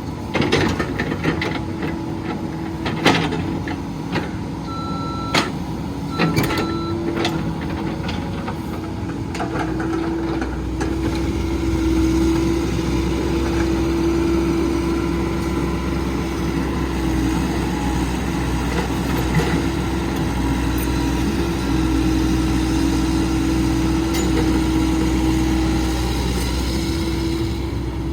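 CAT 308 excavator's diesel engine running steadily, with metallic clanks and knocks and a few short beeps in the first several seconds. About ten seconds in the engine note grows heavier with a deeper rumble, and it holds there.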